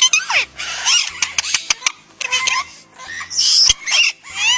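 Kittens mewing: a run of high, thin mews, each falling steeply in pitch and often overlapping, with scattered sharp clicks and a short burst of hiss a little past three seconds in.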